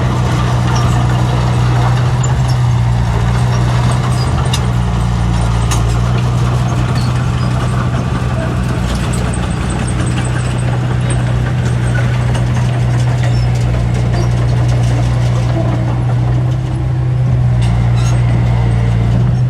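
A heavy construction machine's diesel engine running at a steady speed, with a strong low hum.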